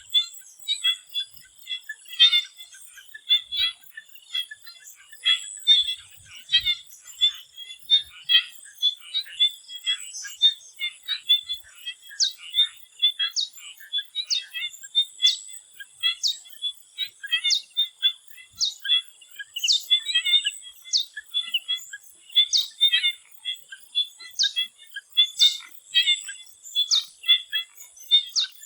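Chorus of swamp frogs, many short calls overlapping in a continuous chatter. About twelve seconds in, a regular series of short high chirps joins, roughly one a second, over a thin steady high whine.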